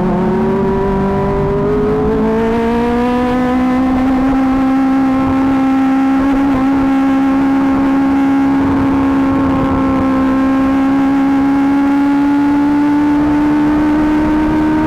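Kawasaki ZX-25R's 250 cc inline-four running through an Akrapovic GP titanium exhaust. The engine revs up over the first few seconds, then holds a high, steady note that creeps slightly higher near the end.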